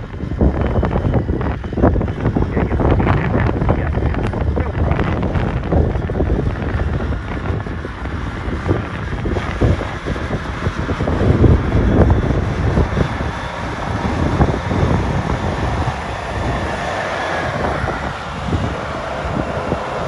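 A vehicle engine running with wind buffeting the microphone.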